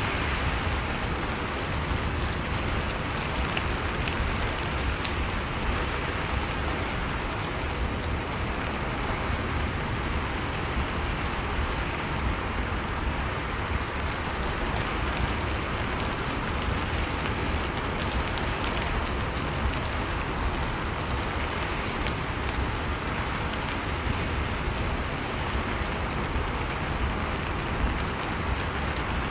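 Steady rain falling, with small scattered drop ticks over an even hiss.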